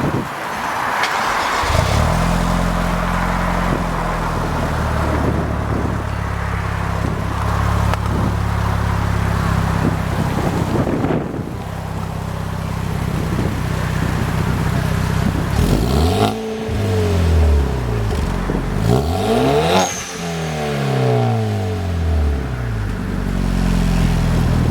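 Turbocharged 2.0-litre four-cylinder engine running through a Jun BL R-Line turbo-back exhaust. It idles steadily, is revved twice in quick rising-and-falling blips over the second half, and settles back to idle.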